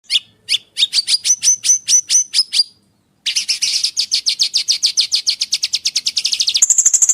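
Songbird singing: a run of about ten sharp, downward-sweeping whistled notes, a short pause, then a fast buzzy trill that switches to a higher, thinner trill near the end.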